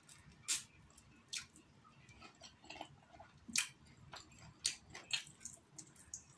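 Mouth sounds of eating a chicken wing off the bone: irregular wet smacks and chewing clicks, the sharpest about half a second and three and a half seconds in.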